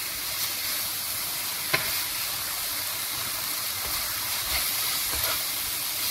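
Chicken strips sizzling in oil in a frying pan as a wooden spatula stirs them through a spice mix, a steady frying hiss with one sharp tap a little under two seconds in.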